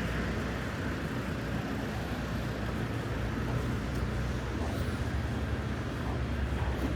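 Steady low rumble of road traffic on a wide city boulevard, with no single vehicle standing out.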